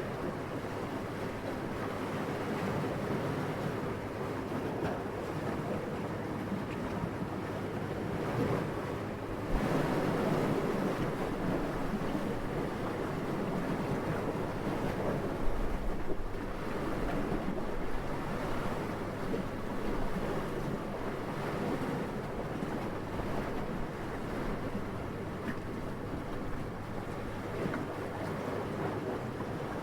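Steady wind blowing, swelling in a stronger gust about a third of the way in before settling again.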